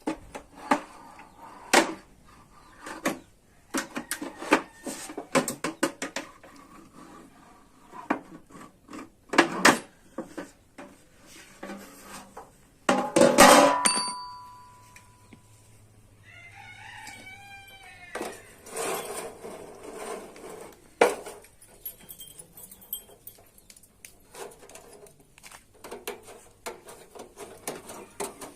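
Irregular metallic clicks and knocks, with one loud metal clang about halfway through that rings on briefly. A few seconds later comes a short run of animal calls.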